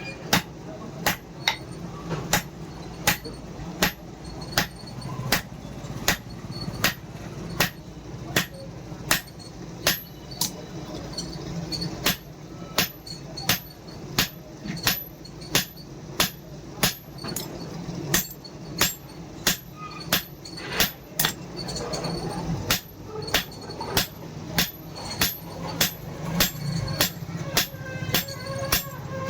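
Hand hammer striking steel on an anvil in a steady rhythm, about two blows a second, each blow ringing briefly, over a steady low hum.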